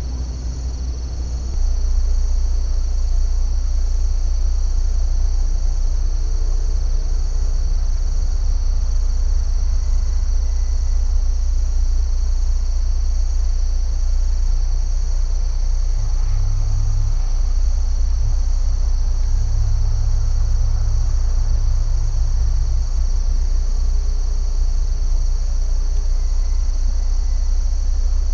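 A steady, unbroken chorus of crickets trilling high, over a continuous low rumble.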